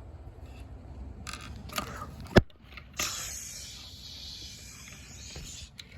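Gold paint being sprayed on: a sharp click, then a steady hiss lasting about two and a half seconds.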